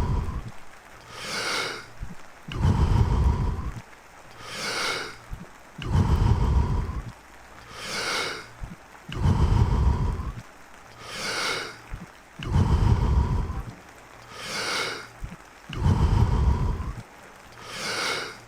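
A man breathing deeply and forcefully in a steady rhythm, about one full breath in and out every three seconds, during the fast power-breathing round of the Wim Hof Method. Steady rain runs underneath.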